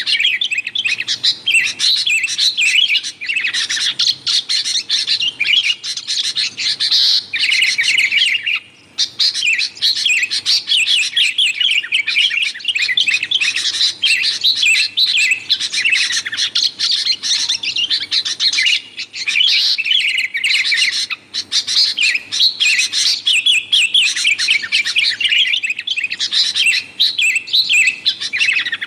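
Sooty-headed bulbuls (kutilang) chattering noisily in a dense, rapid stream of chirping notes, with a short pause about nine seconds in.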